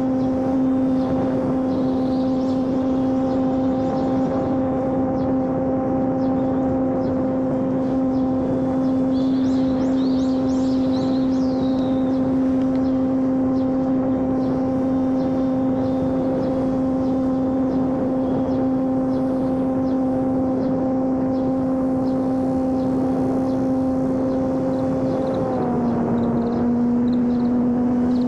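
Electric motor and propeller of a homemade RC airplane running in flight at a steady throttle, a constant buzzing hum. Its pitch steps down slightly near the end.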